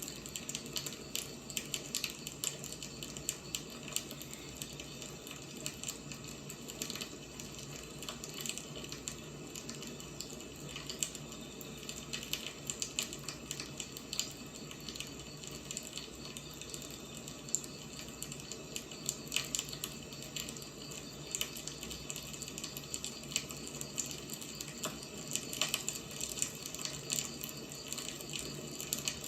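Wood fire crackling: a steady hiss with frequent small, sharp pops and snaps.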